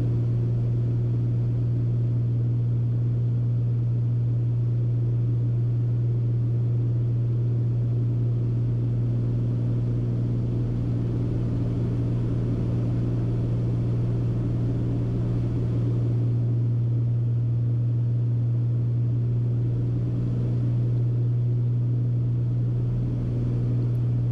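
Steady cabin drone of a Beechcraft Baron B55's twin six-cylinder piston engines and propellers in flight, an even low hum that holds constant.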